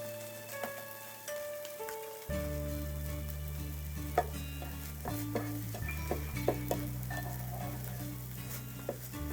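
Monjayaki batter sizzling on an electric hot plate while metal spatulas chop and scrape at it, with sharp taps clustering from about four seconds in. Background music with a bass line plays throughout.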